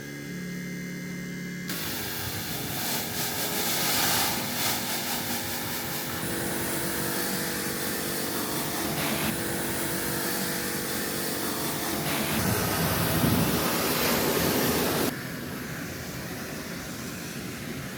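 A vehicle engine running with a steady roar and road or wind noise, in a few clips cut together that start and stop suddenly.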